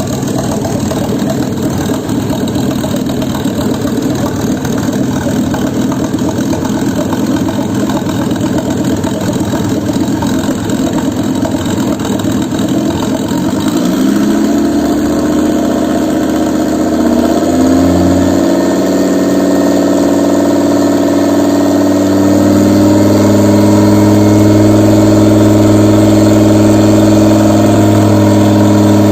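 Volvo B5204T9 2.0-litre turbocharged five-cylinder petrol engine running on a test stand. It runs at idle, then about halfway through the revs are raised in steps and held at a steady higher speed while it is checked.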